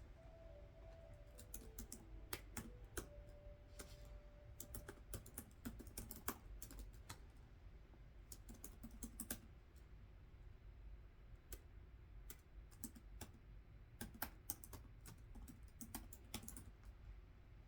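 Typing on a computer keyboard: soft, irregular runs of keystrokes with short pauses between them.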